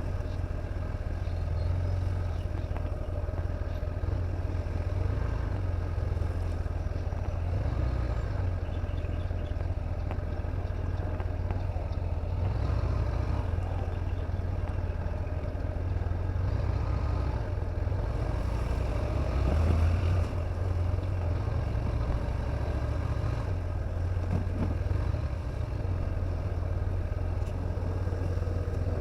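A vehicle running steadily: an even low rumble with no sharp events.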